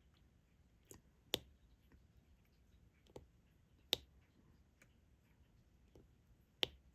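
Diamond painting drill pen setting resin drills onto the adhesive canvas: sharp plastic clicks every few seconds, three of them louder, with fainter ticks between.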